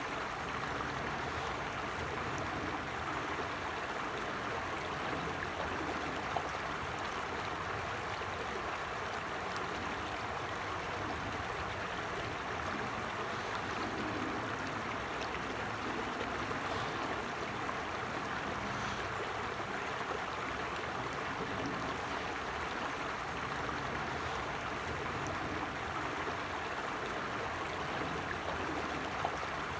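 Creek water running and babbling over stones in a steady, continuous flow.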